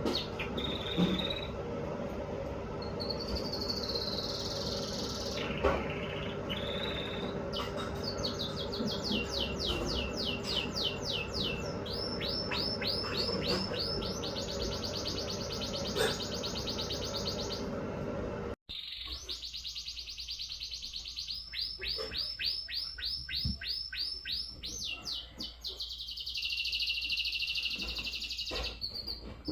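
Red factor canary singing: long phrases of rapid rolling trills, each made of quick repeated pitch sweeps, alternating with held, warbling notes.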